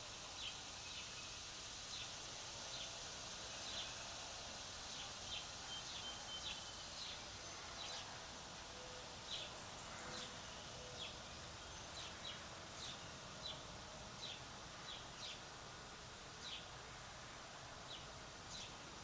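Birds giving short, repeated chirps at irregular intervals over a steady outdoor background hiss.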